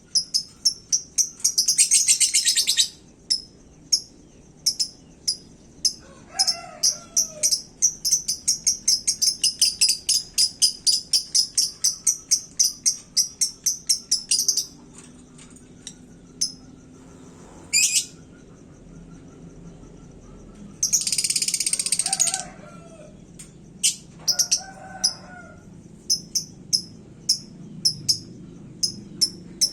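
Lovebird singing in rapid series of sharp, high chirps several times a second. Two long, dense trills break through, about two seconds in and again after twenty seconds.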